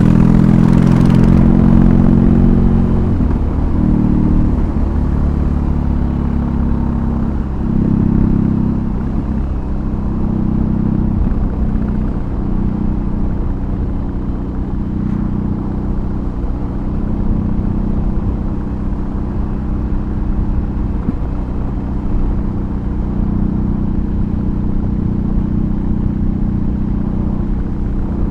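BMW R18's 1802 cc boxer twin running through a custom exhaust on the move. The engine note dips and picks up again a few times in the first ten seconds, then holds steady at a cruise.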